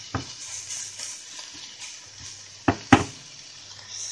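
Diced bacon, ham and chopped mushroom stalks frying in a pan, a steady sizzle. Two sharp knocks a little under three seconds in.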